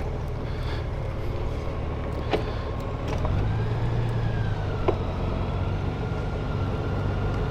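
Motorcycle engine running at low speed while the bike is eased into a parking spot, picking up about three seconds in, with two sharp clicks.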